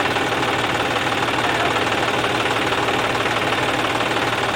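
Tractor diesel engine running steadily close by, a loud, even chugging.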